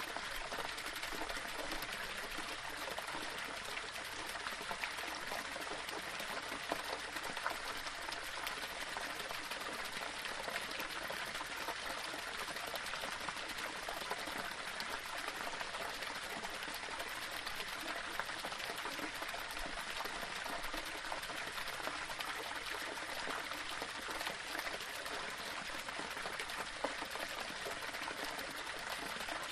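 Small waterfall splashing and running steadily over rocks, an even rushing of water with fine bubbling texture.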